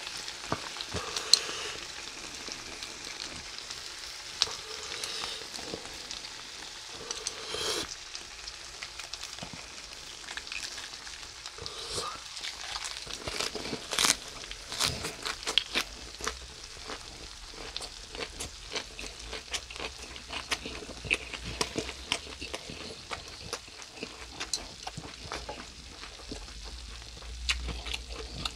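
Spicy stir-fried pork with vegetables sizzling on a hot grill plate, a steady hiss with sharp pops and crackles scattered through it, busiest about halfway through.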